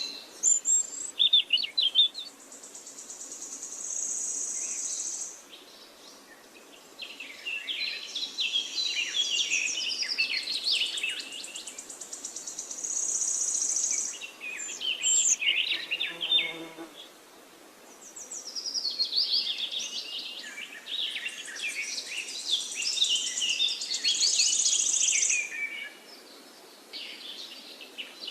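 Birds singing in repeated bouts of chirps and trills, with a high, even buzzing trill among them, over a faint steady hiss.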